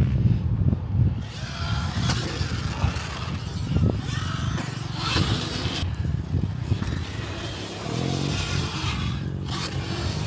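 Motorcycles running at a motocross track, a rough, uneven engine noise that changes abruptly a few times.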